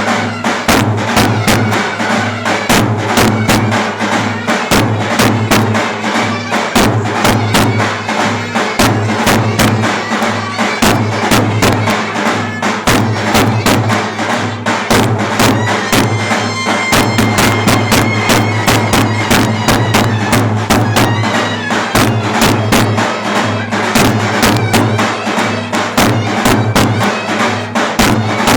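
Turkish folk dance music: a clarinet playing a reedy melody over a fast, steady davul drum beat with dense percussion strokes.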